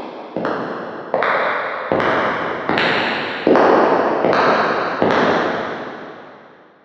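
Footsteps with a long echo after each step, about one step every three-quarters of a second, growing louder over the first few steps. The last step falls about five seconds in, and its echo dies away to silence.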